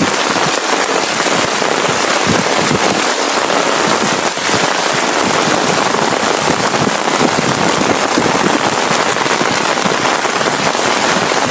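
Heavy rain falling steadily on a flooded street and pavement: a dense, even hiss.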